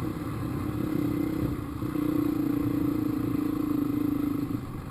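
A 450 dirt bike engine running under throttle. It picks up and holds stronger about two seconds in, then eases off near the end.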